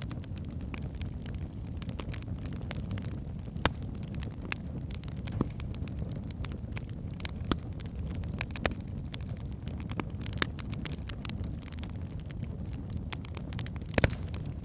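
Wood fire burning in a fireplace: a steady low rumble of flames with frequent crackles and sharp pops from the logs, the loudest pop near the end.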